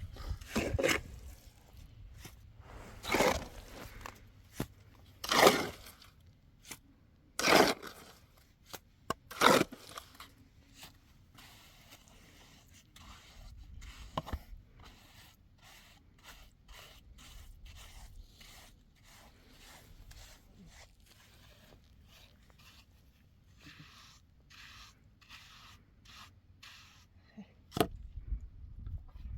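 Repeated scraping strokes of a hand tool: about five loud strokes roughly two seconds apart, then a long run of quicker, fainter strokes, and one sharp stroke near the end.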